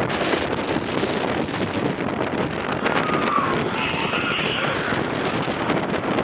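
Wind rushing over the microphone and the train running on the track of the Magnum XL-200 steel roller coaster during the ride. A few brief high-pitched cries from riders screaming come about halfway through.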